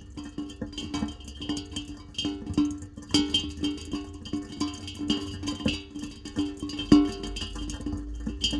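Music played on a plucked guitar: a run of short picked notes that keeps returning to one low note.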